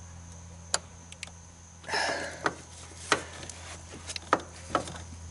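Socket wrench, extensions and socket making sparse sharp metallic clicks and taps as they are seated and worked on a spark plug, over a steady low hum. A short, louder rustling noise comes about two seconds in.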